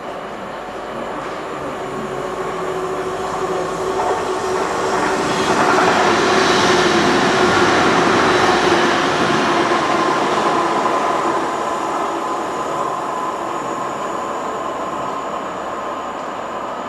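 A train passing on the railway, its noise building to a peak about six to nine seconds in and then slowly easing, with a steady whine over the rumble of the wheels.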